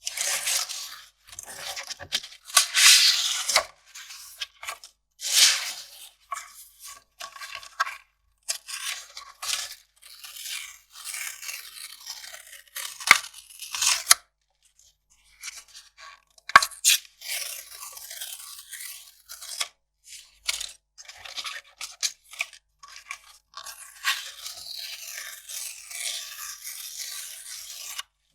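Kraft paper handled by hand, crinkled and torn, in irregular crackly bursts, with a couple of sharp snaps partway through.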